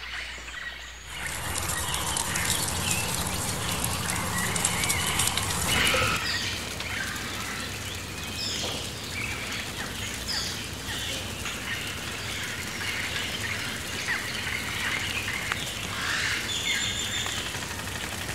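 Various birds chirping and calling over a steady outdoor background hiss, which changes suddenly about a second in.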